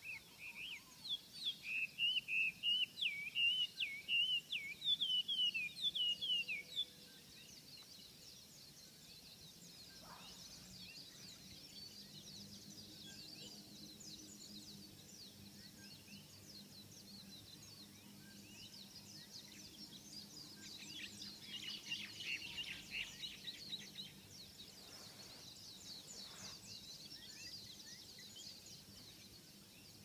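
Birdsong: one bird sings a loud, fast warbling phrase for about the first seven seconds, over fainter high chirps and trills from other birds. Those grow busier with quick repeated notes in the second half.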